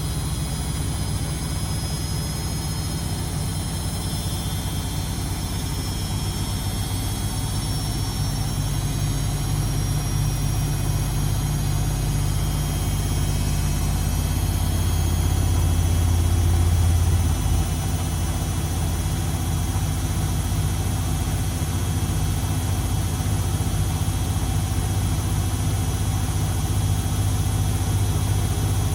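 Beko WMD 46160 washing machine running, a steady low hum and rumble from the motor and drum. It swells a little then shifts pitch about seventeen seconds in.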